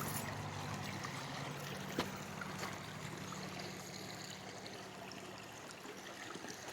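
Stream water running, with a low steady hum underneath and a single sharp click about two seconds in.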